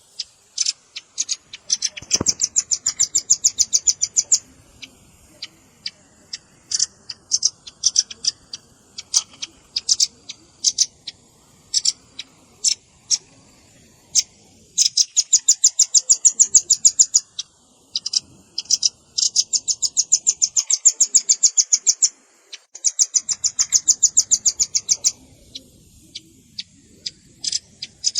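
Velvet-fronted nuthatch calls: sharp, high chips, some scattered singly and some run together into fast trills lasting about two seconds, four times over. It is a bird-luring recording of adult and young birds.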